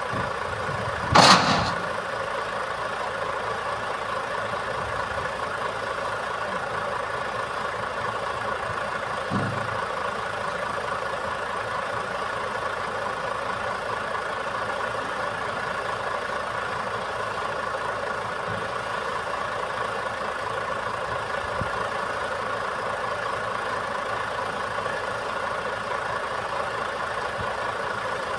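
Truck engine running steadily at an even pitch, as when it powers a boom crane, with one loud knock about a second in.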